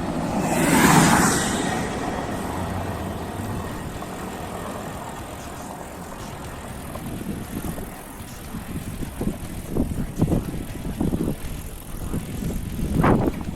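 Steady wind and road rumble of a bicycle being ridden, with a loud rushing swell about a second in and scattered knocks and clicks in the second half.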